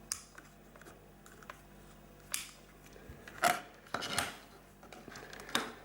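Small plastic plugs and wires being handled on a workbench: a scattering of short clicks and scrapes, the loudest cluster about three and a half to four and a half seconds in.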